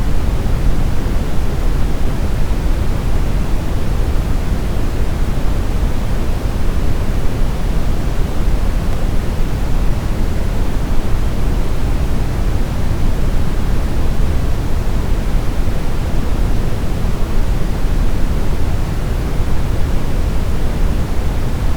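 Steady brown noise: an even, deep rumbling hiss with most of its weight in the low end and little at the top, unchanging throughout.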